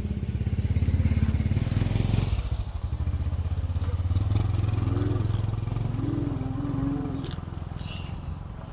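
Engine of a homemade Thai earth-hauling truck running with a fast low chugging pulse, loudest in the first couple of seconds and easing off near the end. A few wavering higher tones sound over it partway through.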